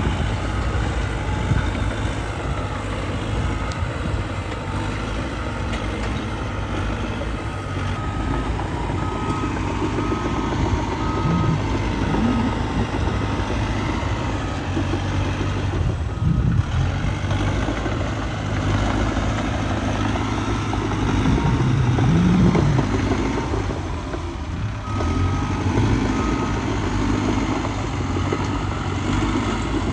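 Heavy diesel earthmoving machinery running steadily with a backup alarm beeping about once a second; the beeping pauses midway and starts again near the end, and the engine rises in pitch briefly a couple of times.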